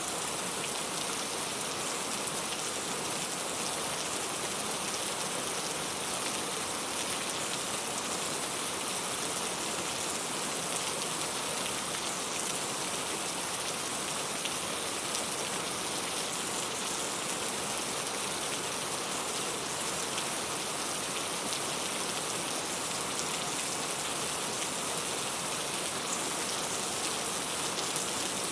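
Steady rain falling, a constant hiss of many small drops hitting a surface.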